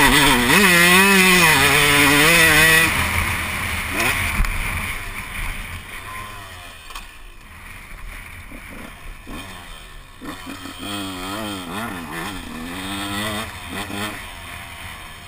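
Motocross dirt bike engine revving up and down, loud for the first three seconds and then fading away. A quieter revving engine comes up again about ten seconds in.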